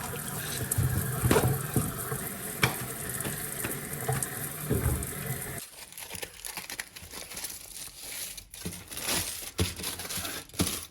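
Paper wrapping of a deli steak wrap crinkling, rustling and tearing as it is unwrapped by hand, with scattered crackles. A steady hiss under it cuts off sharply about halfway through, after which the crackles are sparser.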